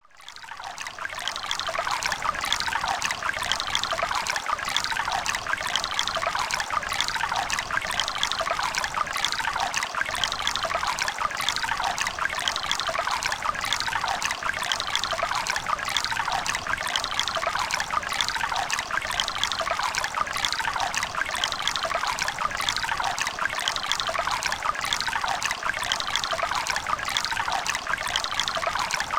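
A river running over rocks, a steady babbling and trickling of water that fades in over the first couple of seconds.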